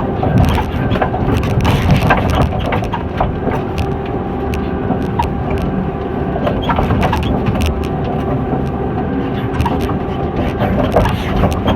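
Diesel engine of a heavy logging machine running steadily under load, with repeated cracking and snapping of wood and brush being dragged or crushed.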